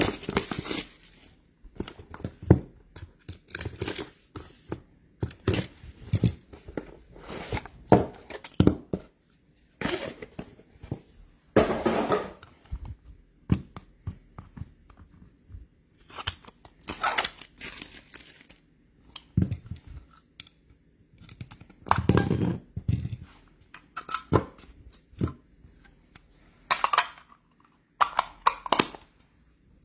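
Sealed trading-card box being opened: wrapping torn off and cardboard and packaging crinkled and handled, in irregular tearing and rustling noises.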